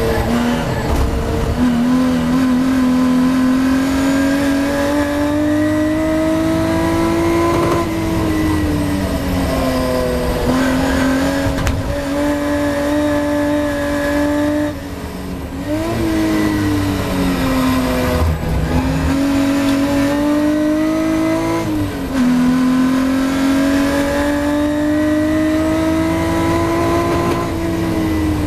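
Ford Capri V6 race car engine heard from inside the cockpit under hard acceleration. The engine note climbs steadily and drops sharply at each upshift, with a brief lift-off about halfway, and falls away near the end as the car slows.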